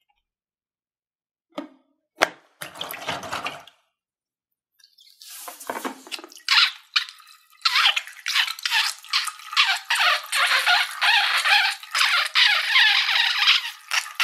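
Slime being squished and worked by hand, making wet crackling and popping. There are a couple of clicks and a short squish about two seconds in, then dense crackling from about five seconds on.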